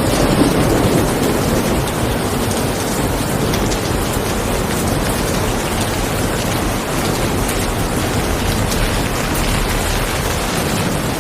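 Steady rain falling, an even hiss of drops, with a brief low swell in the first second or so.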